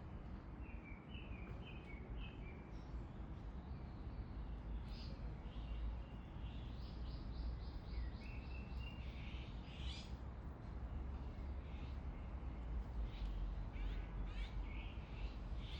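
Small birds chirping in short repeated notes, with a quick run of evenly spaced notes about seven seconds in, over a steady low rumble.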